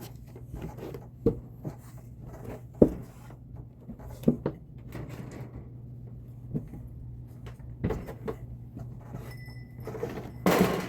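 Scattered knocks and clunks of household handling, about half a dozen spread out, over a steady low hum, with a short louder rush of noise near the end.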